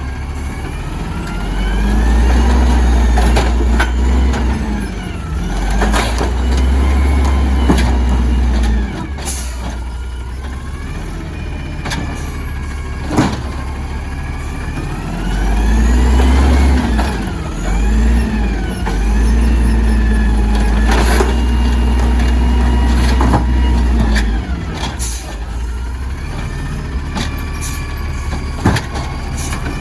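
Garbage truck's diesel engine revving up, holding and dropping back several times, as when it powers the hydraulic lifting arm and packer, with heavy low rumble and several sharp metallic bangs.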